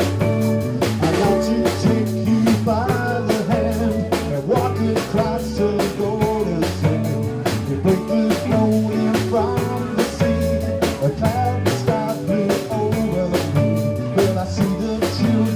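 A live band playing an instrumental passage of a song, with a drum kit keeping a steady beat under guitar and bass.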